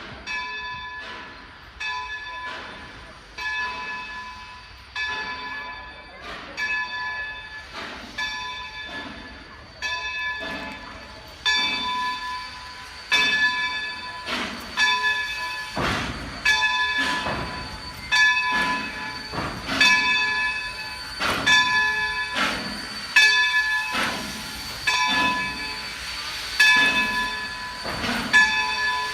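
A railway locomotive's bell ringing steadily, one clang roughly every second, growing louder from about twelve seconds in.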